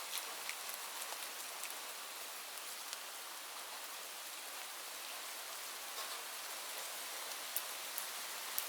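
Steady rain, an even hiss with scattered individual drops ticking on a surface.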